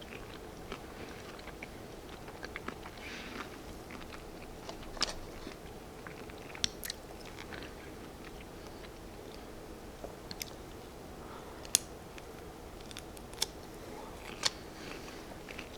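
A person chewing and biting food, shrimp and baby bell peppers, with scattered sharp crunchy clicks, a few of them louder in the second half.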